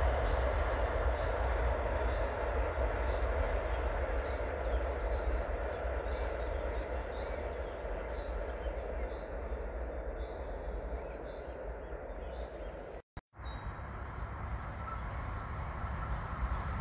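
Long freight train of container and tank wagons rolling past at a distance: a steady rumble and wheel noise. It cuts off abruptly about thirteen seconds in, and a quieter steady background follows.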